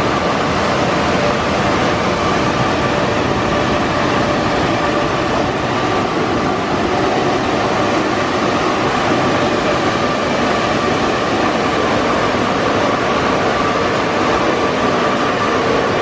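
Machinery of a Broadway all-cloth automatic car wash running: a loud, steady rushing noise with a faint high whine.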